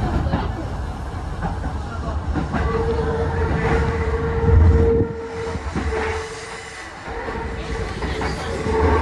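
Kintetsu 2000 series electric train running, heard from the driver's cab: the rumble and clatter of wheels on the track. About two and a half seconds in, a steady high squeal sets in as the train takes a curve, and the low rumble drops away about six seconds in.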